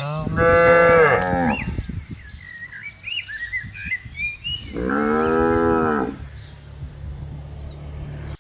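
Two cows mooing, two long calls about four seconds apart, the first near the start and the second in the middle, with faint bird chirps behind.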